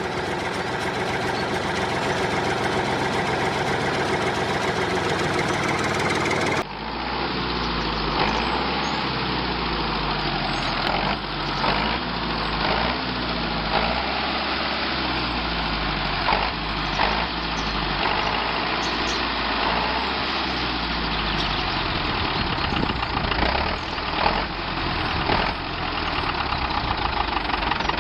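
A DIY mini tractor's small engine running steadily. After a cut about six and a half seconds in, its pitch wavers up and down, as if the engine is working under changing load, with scattered small knocks.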